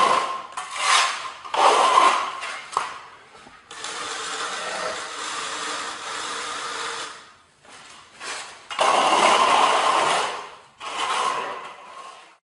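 Floor-preparation tool noise: repeated rough scraping strokes, with a steadier machine-like whir for about three seconds in the middle.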